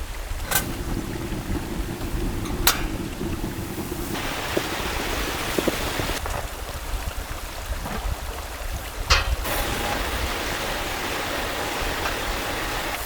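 Steady rushing of water, with a low rumble beneath it and a few sharp clicks. The hiss turns brighter about four seconds in and shifts again near the end.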